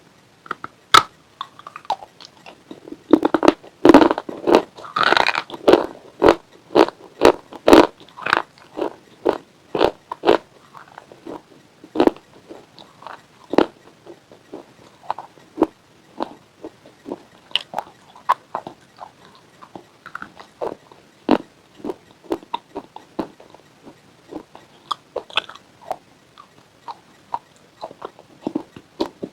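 Close-miked biting and crunching of brittle white chips with a pink coating, a run of sharp cracks. The cracks come thick and loud a few seconds in, then settle into slower, softer crunches of chewing.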